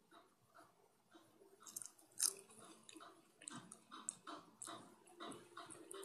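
A person biting and chewing a crisp sheet of dried seaweed: a sharp crunch a couple of seconds in, then a run of quieter crackling chews.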